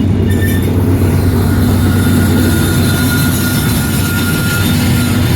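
Diesel locomotives on the rear of an empty coal train running past: a steady low engine drone over the rumble of the train, with a thin high whine that grows stronger near the end.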